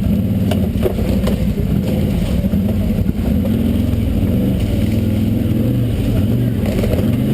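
Off-road vehicle's engine running under load, its pitch rising and falling as the driver works the throttle climbing over rock, with a few brief knocks about a second in.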